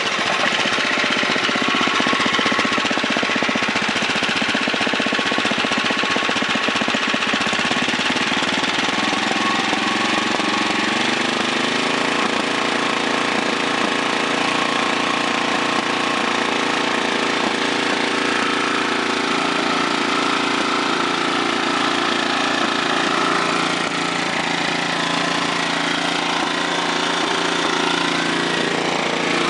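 2006 Tecumseh 5.5 hp, 195 cc horizontal-shaft Snowking flathead engine (LH195SP) running steadily on its own at low governed idle, smooth and healthy.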